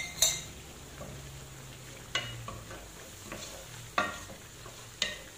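Courgette slices frying in hot oil with a steady sizzle, while a wooden spoon stirs a tomato and garlic sauce in a second pan, knocking against the pan several times.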